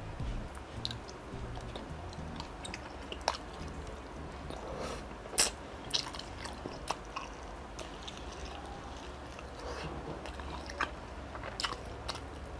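A man chewing and biting grilled meat and rice eaten by hand, with scattered soft mouth clicks and smacks.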